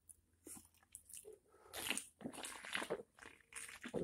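A person biting and chewing food, with irregular crunching and wet mouth sounds.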